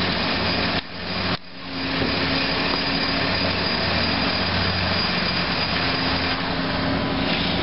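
Van engine running steadily at a fast idle of about 2,000 rpm, with its vacuum leaks sealed. The level drops sharply twice for a moment about a second in.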